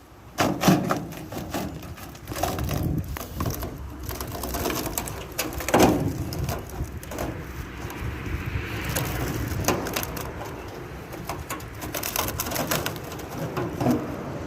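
A rotted wooden roll pan on a 1984 Chevy C10 pickup being pried and broken off, its wood cracking, crunching and splintering in irregular snaps and knocks.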